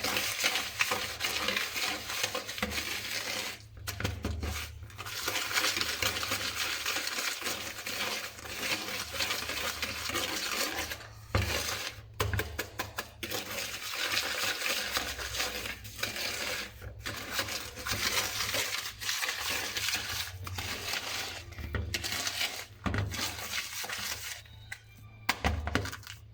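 A utensil stirring melted butter and sugar in a mixing bowl, scraping and clinking against the bowl, with a few short pauses.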